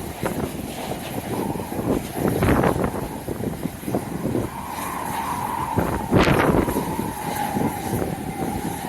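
Strong wind buffeting the microphone in uneven gusts, with a steady high whine joining about five seconds in.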